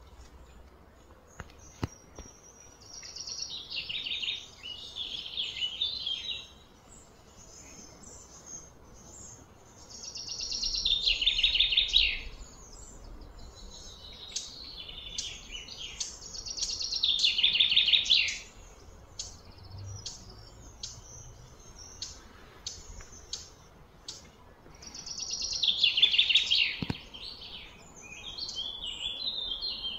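Birds singing: loud trilled phrases that fall in pitch, each about two seconds long and repeated every several seconds, with short high chirps between them.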